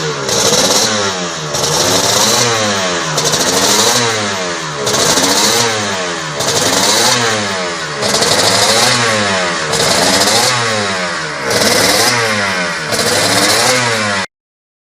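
Two-stroke motorcycle engine revved in repeated throttle blips, about nine in a row. Each blip rises and falls in pitch, and the sound cuts off abruptly near the end.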